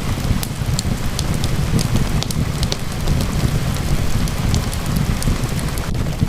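Steady rain falling, with a deep steady rumble underneath and a fireplace fire crackling in scattered sharp pops.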